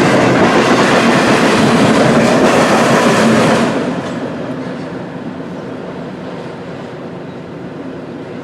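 Intermodal freight train rolling past over a railroad diamond crossing, its wheels clattering over the crossing. About four seconds in the sound drops sharply, and a quieter rumble of the train carries on.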